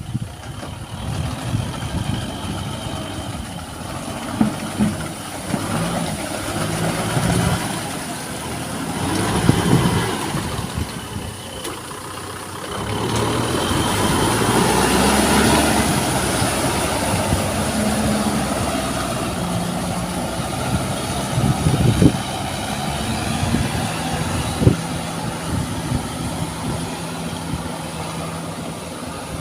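Tractor engine running under load while plowing through mud, its pitch shifting, with a louder rushing swell about halfway through and a couple of sharp knocks near the end.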